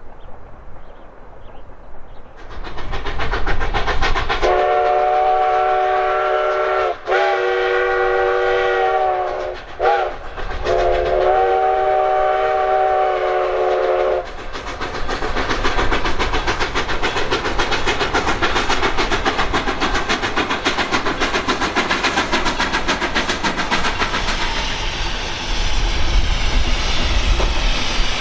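Narrow-gauge steam locomotive blowing its chime whistle as the train comes on: two long blasts, one short and one long, the grade-crossing signal. Then the loud rush of the train working past, with steam exhaust and wheels clattering on the rails.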